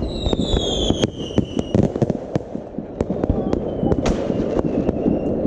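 Fireworks going off in a dense run of bangs and crackles over a continuous rumble, with whistling fireworks whose whistles fall slowly in pitch, one in the first two seconds and a fainter one later.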